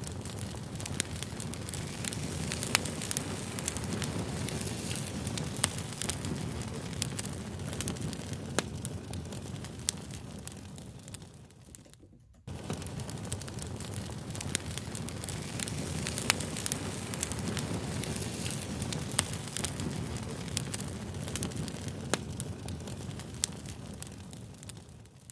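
Fire crackling: a steady low rush with frequent sharp pops and snaps. The sound fades away, cuts back in about halfway through, and fades again near the end, like a repeating recorded loop.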